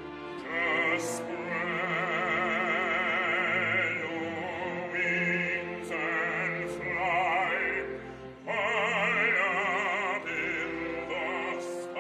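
Operatic singing with strong vibrato over instrumental accompaniment, one sustained sung phrase after another, with a short break a little past the middle.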